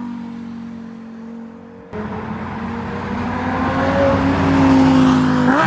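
A car engine under hard acceleration. A steady engine note gets suddenly louder about two seconds in, then climbs slowly in pitch over the next three seconds and rises sharply near the end.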